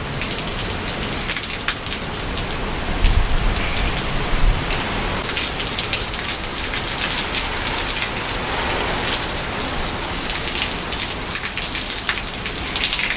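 Heavy hurricane rain pouring down steadily in a dense hiss of drops, with a low rush of strong wind that is loudest about three to four and a half seconds in.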